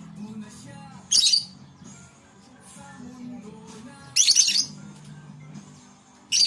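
Lovebirds giving three short, shrill squawks, about a second in, about four seconds in and right at the end, over background music.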